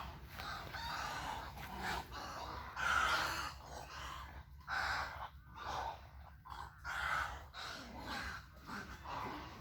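Unidentified birds giving a run of short, harsh, rasping calls, roughly one a second, in a wetland rookery.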